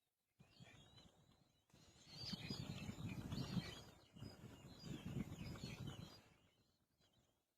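Baby birds chirping in the nest over close scuffling noises, starting about half a second in, louder in two stretches and fading near the end.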